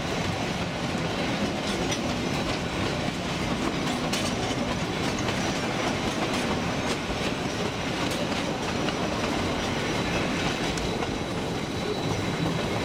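Narrow gauge train running, its wheels rumbling on the rails with scattered clicks over the rail joints, heard from an open-air passenger car.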